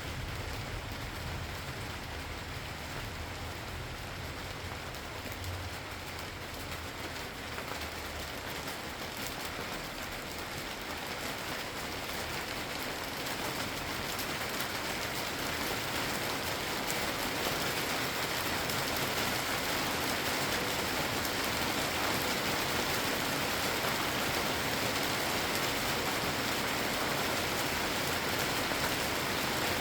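Steady rain falling, growing gradually heavier about halfway through. A low rumble of thunder dies away in the first few seconds.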